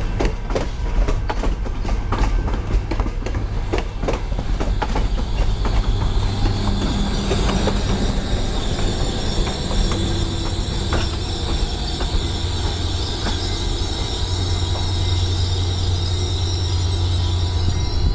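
Commuter train rolling past, its wheels clicking over rail joints at first, then a high, steady squeal from the wheels that starts about six seconds in and rises in pitch near the end.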